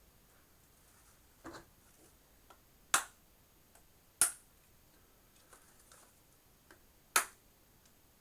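Plastic toolless hard-drive caddy snapping onto a hard drive as its pins click into the drive's screw holes: three sharp clicks a second or more apart, after a softer one.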